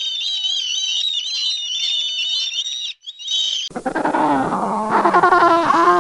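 High-pitched, wavering animal squealing for about three seconds, then after a short break a different, lower-pitched animal crying that grows louder toward the end.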